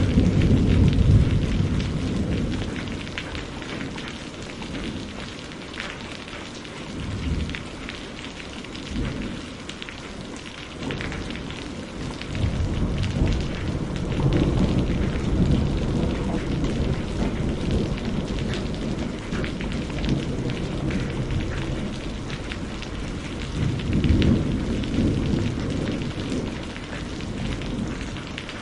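Steady rain hissing, with rolling thunder swelling up in low rumbles at the start, again about halfway through, and once more near the end.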